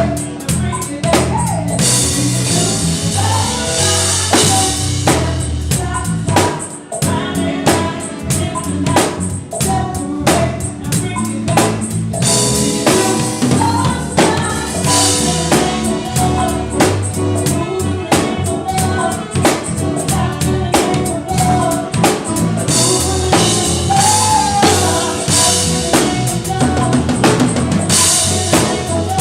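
A band playing, with a drum kit driving a steady beat of kick, snare and rimshots over a stepping bass line, and a singer's voice at times.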